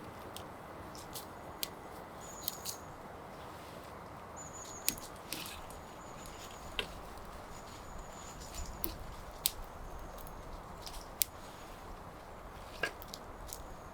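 Wood campfire crackling: irregular sharp pops and snaps over a steady low rushing hiss.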